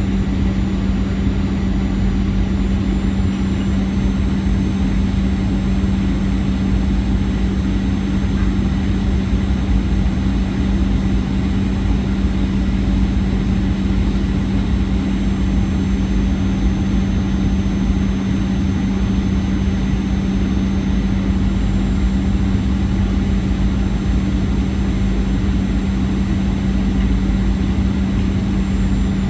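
Airliner cabin noise: a steady engine drone and low rumble with a strong constant hum, unchanging throughout.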